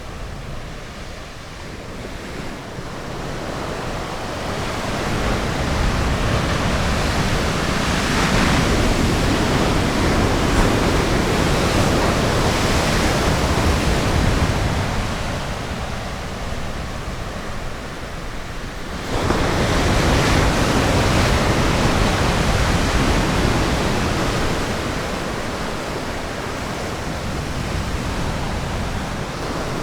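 Ocean surf on a beach: a wave builds over the first few seconds and washes loudly for several seconds before ebbing, then a second wave breaks suddenly about two-thirds of the way through and slowly fades.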